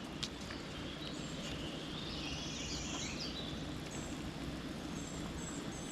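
Steady outdoor background hiss with a few short, high bird chirps and a brief higher buzzing patch about two seconds in.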